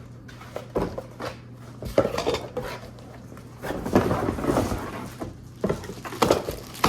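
Hard plastic coffee-maker parts knocking and clattering as they are handled and unpacked. The knocks are irregular, and the loudest come about two and four seconds in.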